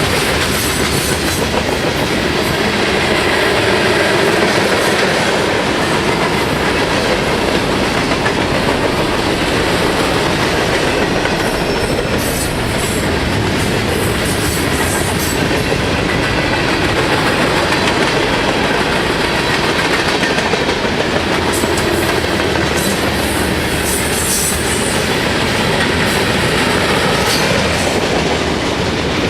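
Norfolk Southern freight train rolling past close by: a steady, loud rumble of steel wheels on rail, with clickety-clack over the rail joints and scattered sharp high clicks and squeaks from the wheels.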